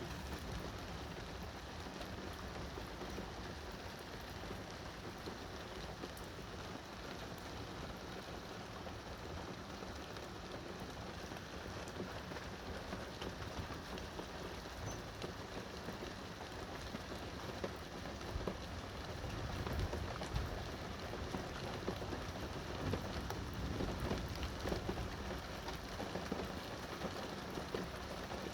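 Steady rain falling in a thunderstorm, a dense hiss with scattered drop clicks. It gets somewhat louder about two-thirds of the way through.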